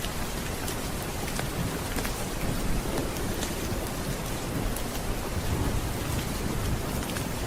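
Steady rain with a low rumble of thunder underneath, and scattered sharp crackles from a wood fire in a fireplace.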